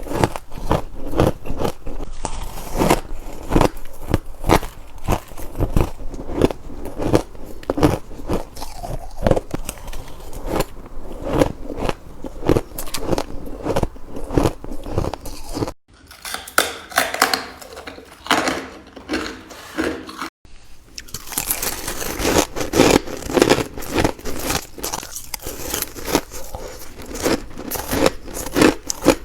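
Ice being bitten and crunched between the teeth: a rapid run of crisp, cracking crunches one after another, with the sound cutting off abruptly twice partway through.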